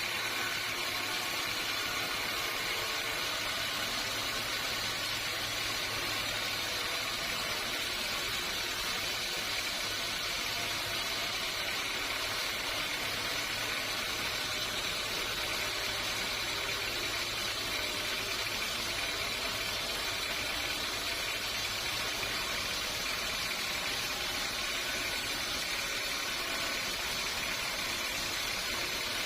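Sawmill machinery running steadily: a constant low hum under a high, even hiss, with no change in pace or load.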